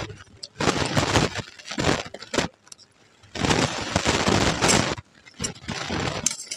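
Close-up crunching of puffed rice (muri) mixed with ghugni being chewed: three bursts of dense crackling with short pauses between them.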